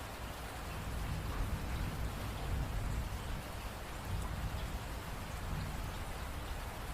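Steady rain falling, an even hiss of many drops, with a low rumble underneath that swells about a second in.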